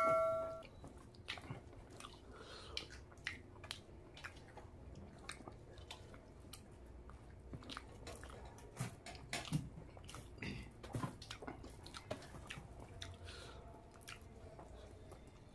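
Close-miked eating by hand: mouth chewing with small smacks and clicks, and soft wet squishes of fingers mixing rice into curry. A bell-like chime, the loudest sound here, dies away in the first half second.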